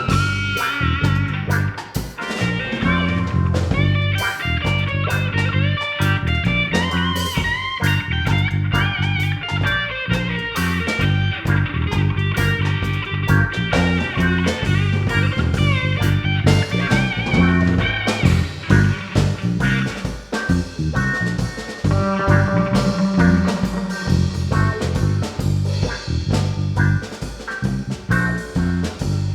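A band playing an instrumental passage, with a guitar line bending and wavering over a steady bass and drum groove.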